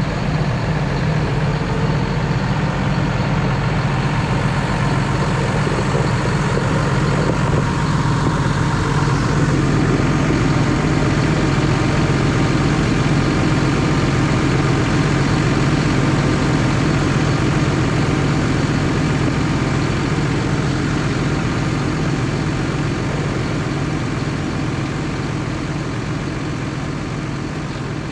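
John Deere tractor's diesel engine running steadily, growing a little quieter near the end.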